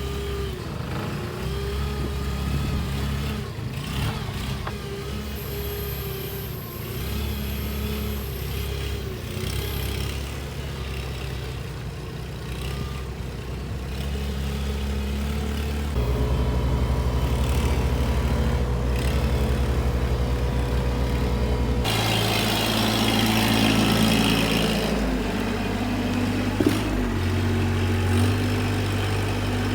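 Engine of machinery running on a building site, idling and revving. The sound changes abruptly twice, about halfway through and again later.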